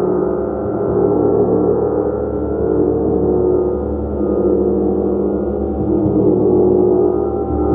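Large gong being played continuously, a dense sustained shimmer of many overlapping tones with a soft pulsing swell in the low end.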